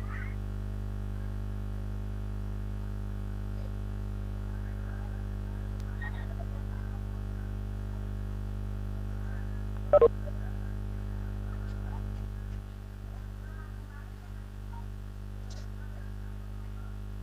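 Steady electrical mains hum, a low buzz with many overtones, coming through a call participant's microphone. There is a brief loud blip about ten seconds in, and the hum drops in level a couple of seconds later.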